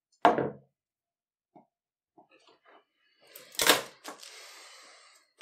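Scissors cutting slits into a thin strip of soft leather: a few quiet clicks of the blades, then a loud sharp snip about three and a half seconds in, followed by a second of rustling. A brief loud, low sound comes just after the start.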